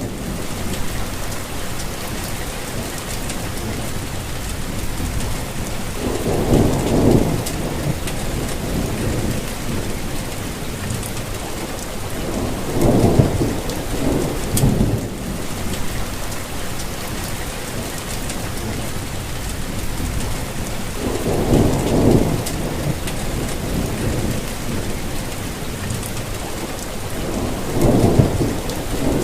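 Steady rainfall, an even hiss of drops, with low rumbles of thunder swelling up four times, each a second or two long.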